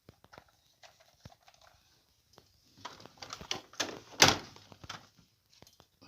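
Plastic toys being handled and knocking against each other: scattered light clicks, then a short run of clattering knocks about three seconds in, the loudest about a second later.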